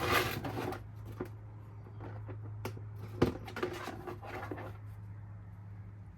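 Hand tools being handled while working at an oil drain plug: rustling and scattered clicks, with one sharp metallic knock about three seconds in, over a steady low hum.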